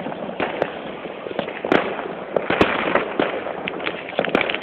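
Fireworks going off: a dense, irregular run of sharp bangs and crackling pops, with louder cracks about a second and a half in and again near the end.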